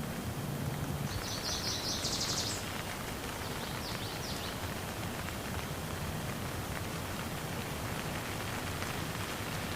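Steady rain falling. About a second in, a bird gives a quick run of high repeated notes lasting a second and a half, followed by a fainter short call a little later.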